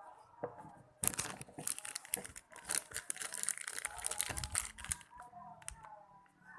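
Packaging crinkling and crackling in dense fine clicks, starting suddenly about a second in and dying down after about four seconds.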